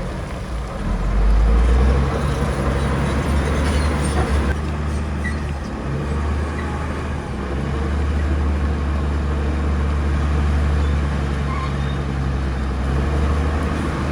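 Heavy diesel earthmoving machinery running steadily, with a deep engine drone that swells briefly about a second in.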